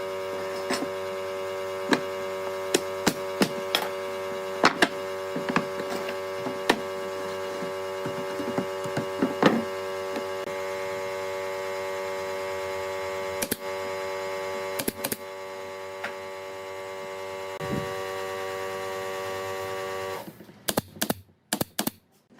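A steady electric hum made of many tones, with scattered clicks and knocks over it. The hum shifts slightly twice, then stops about two seconds before the end, leaving a few sharp knocks.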